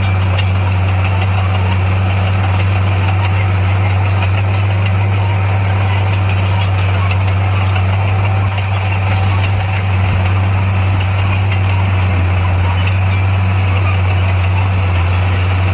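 Heavy construction machine's diesel engine running steadily at an even low pitch, with a brief slight dip a little past halfway.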